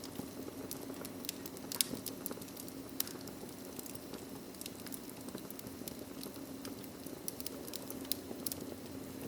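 Wood fire crackling in a fireplace: irregular sharp pops and snaps over a steady low rush of flame.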